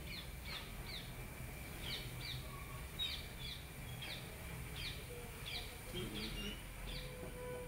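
A bird calling in a series of short chirps, each dropping in pitch, about two a second, over a steady background hum.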